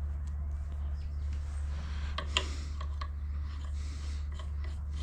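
Small clicks and taps of parts and tools being handled over a steady low hum, with one sharper click about two and a half seconds in.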